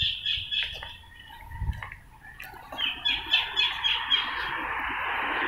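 A bird calling in two quick runs of rapid, evenly repeated notes, the first at the start and the second about three seconds in. A hiss then rises and grows louder toward the end.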